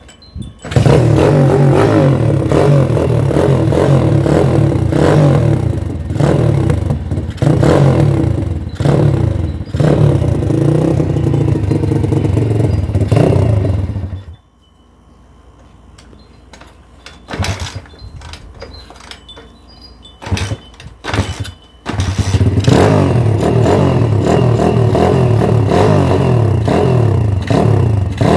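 X Pro Sail 150 pit bike's 150cc four-stroke engine being ridden hard, its revs climbing and dropping again and again with the throttle and gear changes. About halfway through the engine sound falls away for several seconds, with a few brief louder blips, then comes back at full volume.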